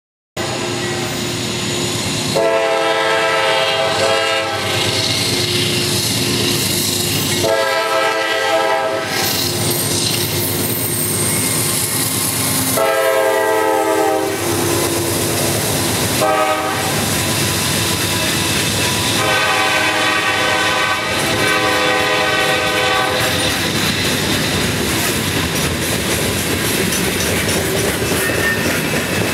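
CSX GE Dash 8-40CW diesel locomotive sounding its horn in the grade-crossing pattern, long, long, short, long, over the steady rumble and wheel clatter of the loaded tie train rolling past. After the last long blast only the cars' rolling and clatter go on.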